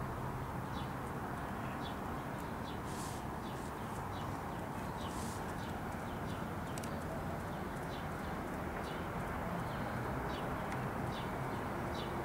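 Small birds chirping in short, scattered high calls over a steady background hiss of outdoor noise.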